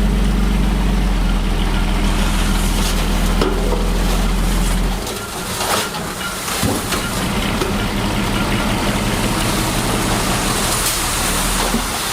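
Heavy diesel construction-machine engine running steadily over a constant hiss. About five seconds in, its deep drone drops away and a lighter, rougher engine sound carries on.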